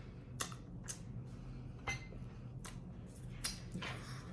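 Close-up eating sounds: a string of short, sharp mouth clicks and smacks while chewing, about one or two a second, over a faint steady low hum.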